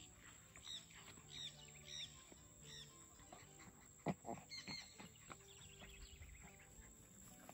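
Birds calling faintly: four short calls spaced under a second apart, then a brief trill and a double call. There is a single knock about four seconds in.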